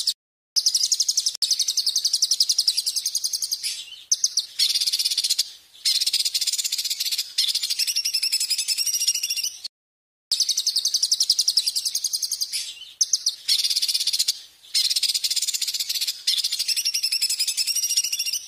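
A songbird's shrill song: long runs of very fast repeated high notes in a trill, broken by short pauses, with a gap of about half a second about ten seconds in.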